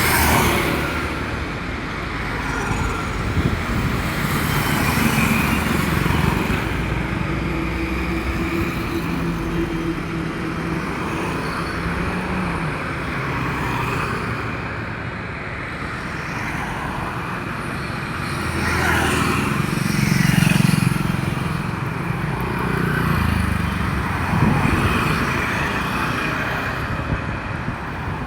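Steady road traffic noise from motor vehicles running by, rising and falling in level, with a louder swell about twenty seconds in.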